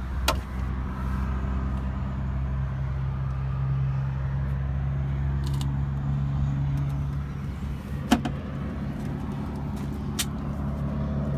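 An engine idling steadily with a low hum, while a few sharp knocks and clicks come through, the loudest about eight seconds in.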